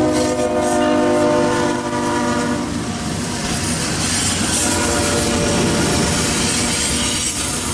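Diesel locomotive horn of a CSX intermodal train sounding one long blast for about the first two and a half seconds, then the train rolling past with wheels clacking over the rail joints.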